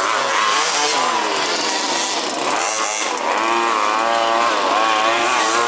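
Several 1/5-scale RC buggies' small two-stroke petrol engines racing together, their overlapping buzz rising and falling in pitch as they rev on and off the throttle.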